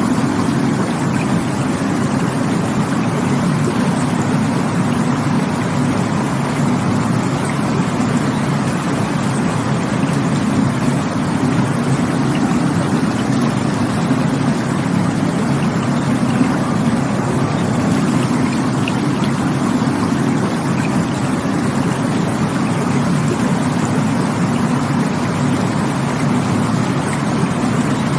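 Rushing stream water running steadily, an unbroken even sound with no swells or pauses.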